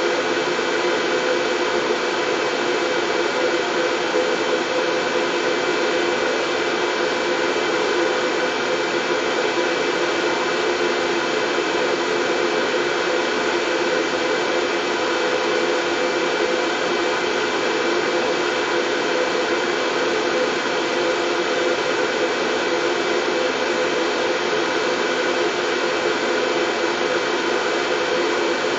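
Steady white noise for soothing a baby to sleep: an even, unbroken machine-like rushing with faint steady hum tones in it.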